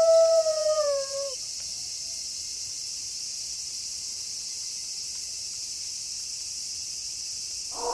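A wolf howl held on one pitch slides down and dies away about a second in. A steady high chirring of crickets is left alone until a new howl starts right at the end.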